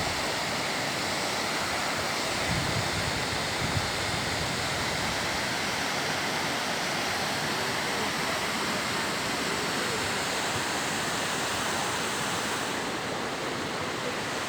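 Steady rush of a mountain waterfall, a lot of water coming down.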